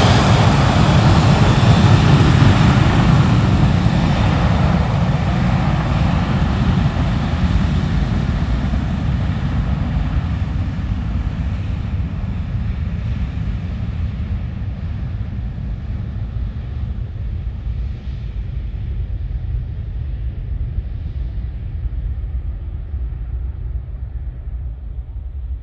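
Jet airliner's engines, a loud roar at first that fades slowly and steadily over about twenty-five seconds as the plane moves away.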